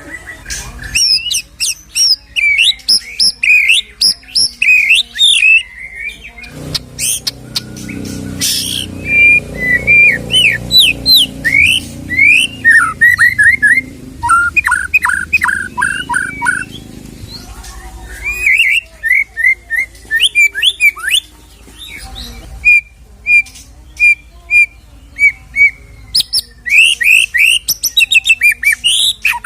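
White-rumped shama (murai batu) singing a long, varied song of clear rising and falling whistles and quick chattering phrases. Short pauses break up the song, and a run of evenly repeated notes comes about three-quarters of the way through. A low rumble sits under the middle part.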